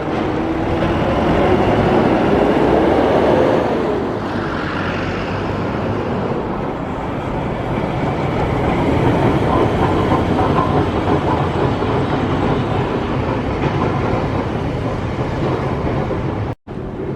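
Hiroshima Electric Railway streetcar running along the track, its traction motor whining and gliding in pitch over the rumble of steel wheels on rail, loudest in the first few seconds. The sound cuts out for an instant near the end.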